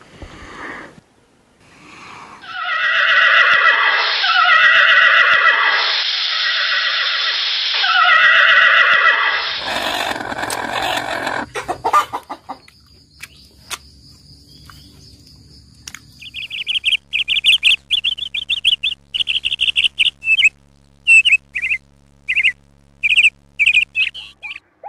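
Birds calling: about four long, loud calls falling in pitch a few seconds in, then over the second half a fast run of short, high chirps.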